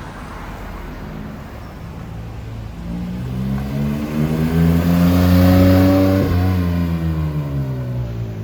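A supercar accelerating hard past. The engine note climbs in pitch and grows louder, cuts briefly just after six seconds in, then drops in pitch and fades as the car moves away.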